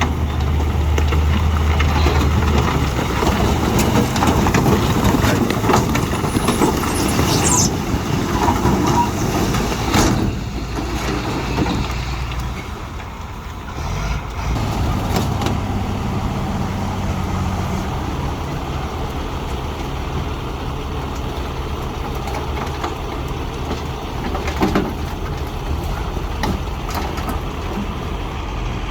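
Diesel engines of heavy earthmoving machinery (bulldozers and dump trucks) running under load, with a brief high squeal and a few knocks about a third of the way in, and the sound easing for a moment near the middle.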